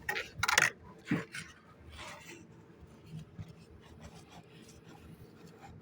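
Brick masonry work with a brick being set in mortar: several short scraping, rubbing strokes in the first couple of seconds, then fainter small knocks.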